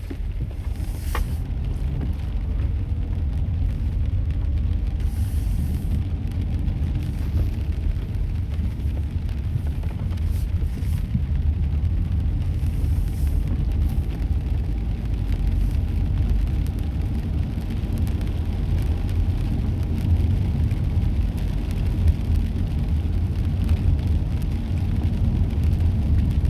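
Light rain falling, heard as a faint even hiss with scattered drop ticks over a steady low rumble.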